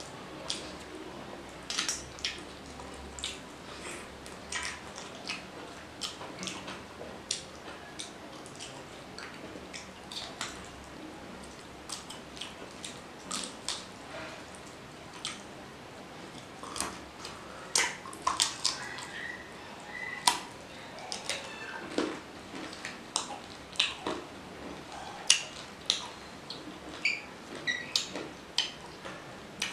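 Close-up eating sounds of rice and mutton curry eaten by hand: wet chewing and lip-smacking, a steady run of short irregular smacks and clicks. The smacks grow louder past the middle.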